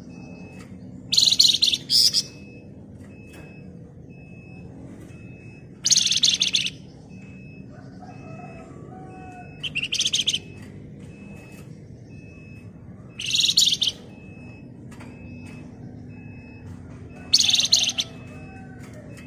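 Flamboyan songbird giving five short bursts of dense, rapid, shrill chattering trills, each under a second long and spaced about four seconds apart. A faint high pip repeats about twice a second under a steady low hum.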